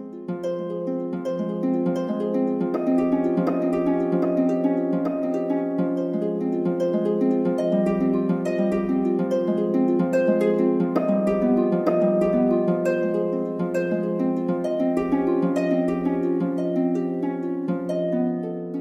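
Background music: a gentle instrumental track of quick plucked harp-like notes over a sustained low tone, with a soft low beat recurring every few seconds.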